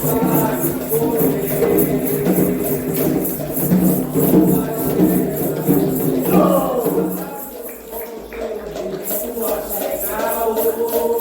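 Candomblé ritual music: voices singing together over a fast, steady shaker rhythm and drums. About seven seconds in the music thins and briefly drops away, then the shaker and singing come back in.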